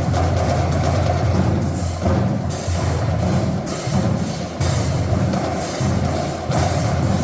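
Marching drumline playing: drums with sharp stick clicks over steady low bass drum.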